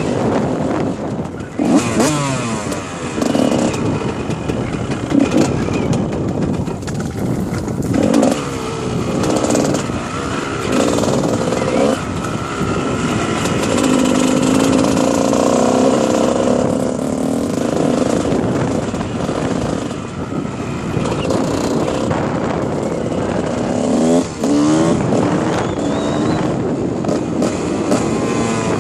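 Dirt bike engine being ridden, revving up and dropping back again and again, over a steady rushing noise.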